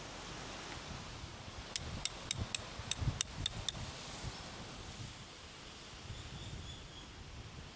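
Steady wind noise, broken a little under two seconds in by a quick run of about eight sharp, slightly ringing clicks at about four a second. A few faint short high chirps come near the end.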